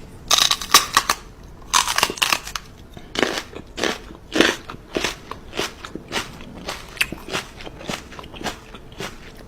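Repeated crunching, like something hard being chewed, about two crunches a second, with louder crunches near the start.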